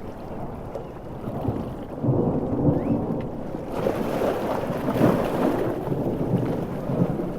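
Thunder rumbling over heavy rain. The rumble swells about two seconds in, and a louder wash of rain noise builds near the middle before easing off.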